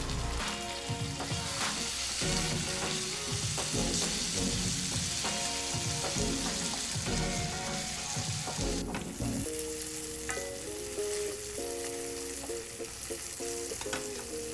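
Onion and tomato masala sizzling in hot oil in a pan while it is stirred, with short scraping strokes. The sizzle drops off about nine seconds in, leaving mostly the background music.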